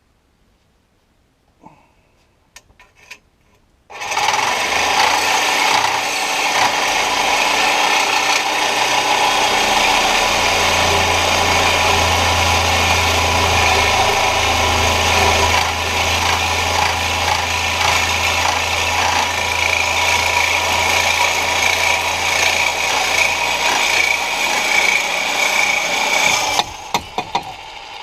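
Reciprocating saw cutting, starting about four seconds in and running steadily for over twenty seconds before it stops near the end; a few light clicks come before it.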